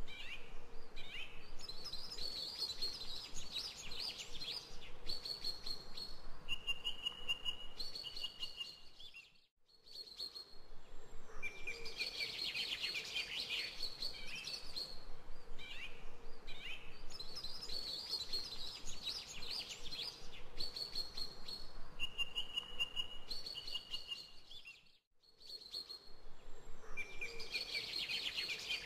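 Birds chirping and singing, with clear whistled notes mixed with rapid twittering. The sound cuts out briefly twice, about nine and a half seconds in and again near twenty-five seconds.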